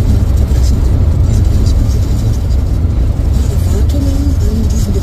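Car driving on the road: a steady low rumble of road and engine noise. A faint voice comes in near the end.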